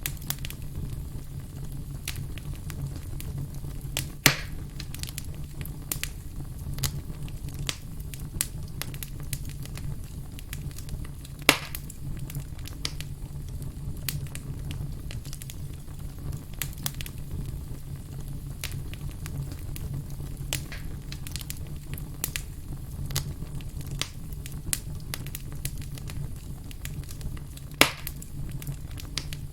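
Wood campfire crackling steadily, with frequent small crackles over a low steady rumble. Three loud pops stand out, about four seconds in, near the middle and near the end.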